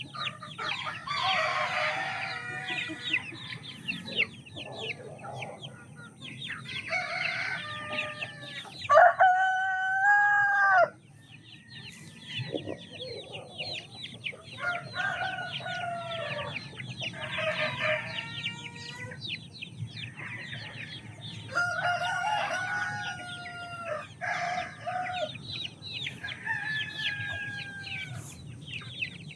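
Chickens clucking and calling throughout, with a rooster crowing loudly about nine seconds in and shorter calls later.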